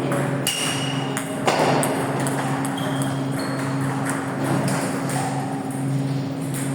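Table tennis balls clicking off bats and tables during play, sharp clicks about two a second, some with a short high pinging ring, the loudest about a second and a half in, over a steady low hum.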